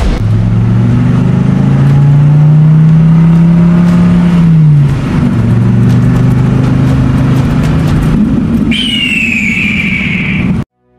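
Car engine accelerating with a gently rising pitch, dropping briefly about five seconds in as at a gear change, then running on. Near the end a high falling squeal sounds over it for about two seconds, then everything cuts off suddenly.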